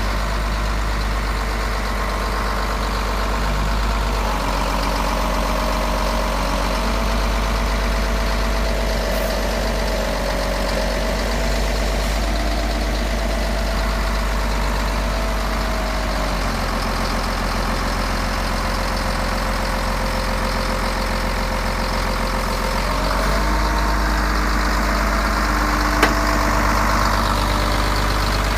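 Caterpillar 140G motor grader's direct-injection diesel engine running near idle, its speed stepping up slightly about four seconds in, dropping back past the middle and rising again near the end. A single sharp click sounds shortly before the end.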